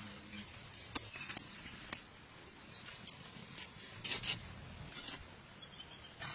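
Faint rubbing with scattered light clicks, several of them about a second apart, some in pairs.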